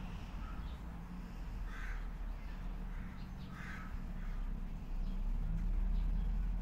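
Harsh, rasping calls of a corvid, two loud ones about two and three and a half seconds in with fainter ones around them, over a steady low rumble that grows louder near the end.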